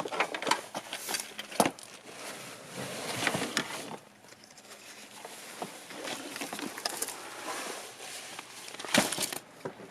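Irregular clicks, knocks and rustling of objects being handled, with a sharper knock at about one and a half seconds in and another near the end.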